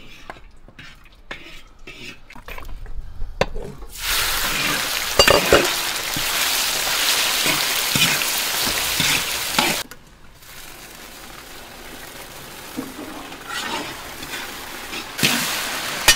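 Cubed pork belly frying in hot oil and caramelized rock sugar in a large iron wok, stirred with a metal ladle. Faint ladle scrapes come first; a loud sizzle starts suddenly about four seconds in, then drops sharply near ten seconds and carries on quieter under the scraping of the ladle.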